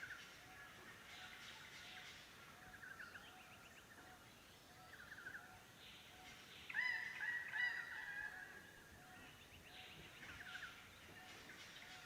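Bird calls: short chattering trills recur every second or two, with a louder, longer call about seven seconds in, over a faint, evenly repeating low chirp.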